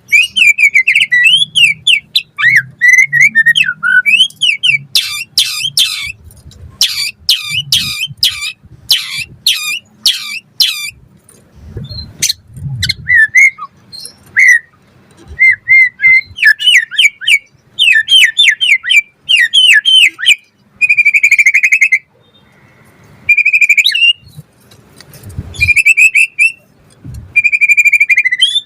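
White-rumped shama singing a loud, varied song: rapid whistled phrases, fast trills and chattering notes, broken by short pauses.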